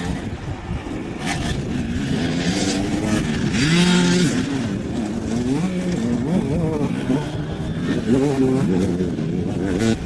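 Dirt bike engines revving up and down, their pitch rising and falling with throttle and gear changes. More than one bike is heard at once, loudest about four seconds in.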